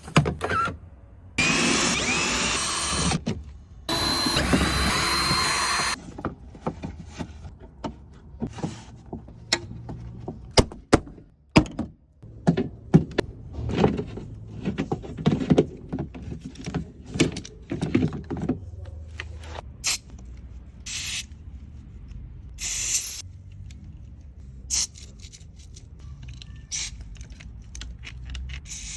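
Skoda Rapid's electric window motor running the glass twice, the second run with a thin high squeak from the window regulator. Then a long run of clicks and knocks, and a few short hisses near the end.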